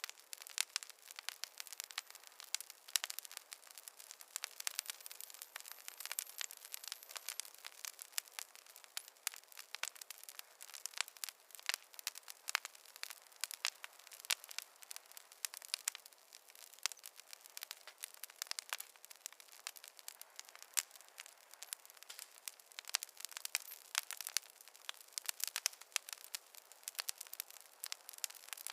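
Wood fire crackling in a fireplace: a dense, irregular run of sharp pops and snaps over a faint hiss, with no low rumble.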